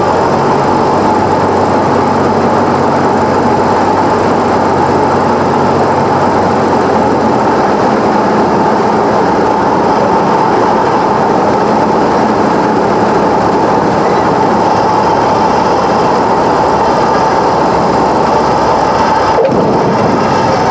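Cessna 172's piston engine and propeller running steadily, a loud continuous drone. The low part of the drone changes about seven seconds in.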